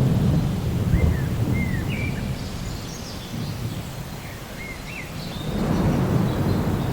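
Thunderstorm: steady rain with a low rolling rumble of thunder, loudest at the start and swelling again about five and a half seconds in. A bird chirps several short notes in the middle.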